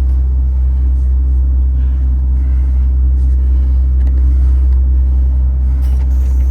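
MAN TGX 18.510 truck's inline-six diesel engine running steadily, a deep even drone heard from inside the cab.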